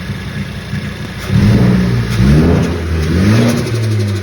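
Car engine revving: a steady drone, then, about a second in, louder with several rises and falls in pitch as it is blipped and accelerates.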